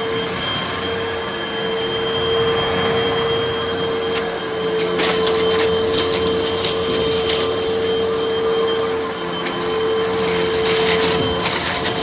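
Hoover vacuum cleaner running with a steady motor hum while it sucks up small crunchy debris, which crackles and ticks through the nozzle. The crackling thickens from about halfway through.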